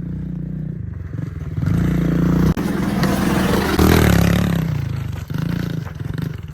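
Small pit bike engine running and revving as it rides a dirt track, its pitch and level pulsing with the throttle. It is loudest about four seconds in, with a spray of gritty scraping noise over the engine.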